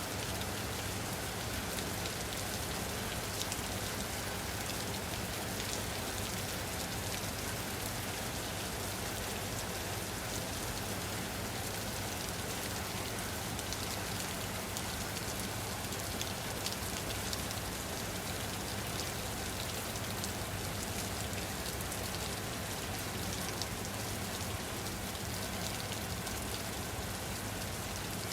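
Steady rain falling on a surface, with fine scattered droplet patter over an even hiss.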